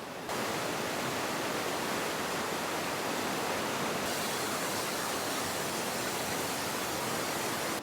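Rushing river water in a canyon below: a steady roar of white water.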